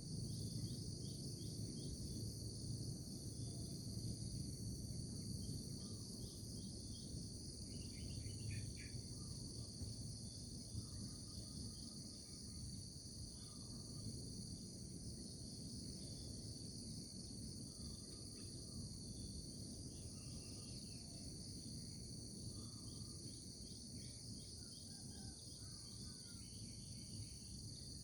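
Outdoor nature ambience: a steady high-pitched chorus of insects, likely crickets, with scattered short bird chirps and a low steady rumble underneath.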